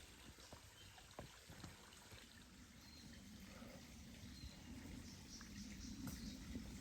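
Faint scattered crackles of footsteps through bush leaf litter and twigs, with a low rumble growing louder from about halfway in.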